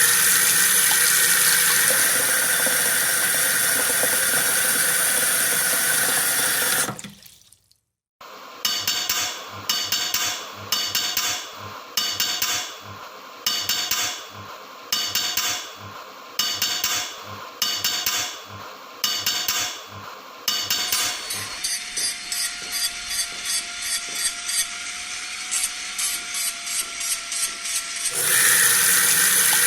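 Tools working a knife blade: a loud, steady grinding hiss, which cuts out briefly. Then come rhythmic rubbing or grinding strokes about once a second, a stretch of fast clicking over a faint steady tone, and the steady grinding hiss again near the end.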